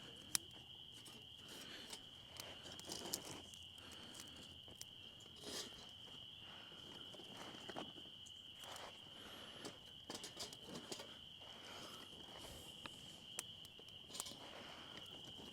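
Crickets chirping in a faint, steady high trill, with scattered clicks and rustles over it.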